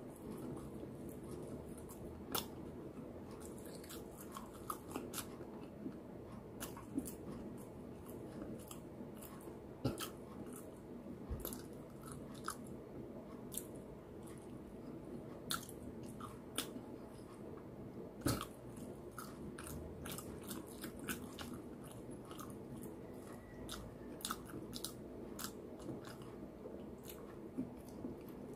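A person chewing food close to the microphone, with many short wet clicks and smacks scattered throughout, over a steady low hum.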